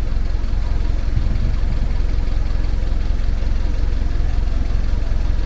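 Toyota Etios 1.5 idling, heard from beneath the car at the fuel tank: a steady low rumble. The in-tank electric fuel pump has been making a bubbling, thumping noise, which the mechanic puts down to a clogged pump pre-filter surging the fuel back and forth.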